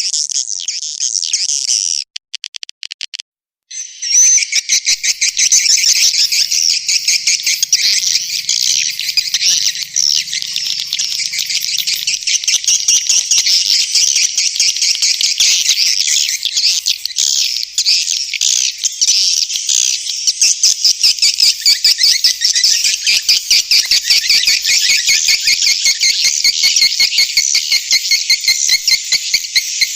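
Swiftlets twittering: a dense, unbroken stream of rapid high chirps that cuts out briefly about two seconds in, then runs on without a pause.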